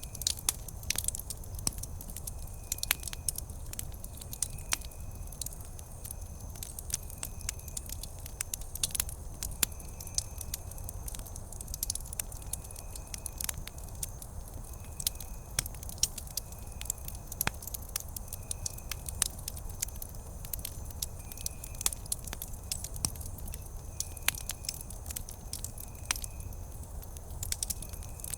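Wood campfire crackling, with irregular sharp snaps and pops over a low steady rumble. A faint high chirp repeats every second or two.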